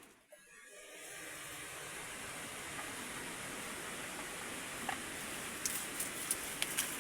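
Heavy rain falling in a steady hiss, which fades in after a brief dip in the first second. A few sharp ticks come near the end.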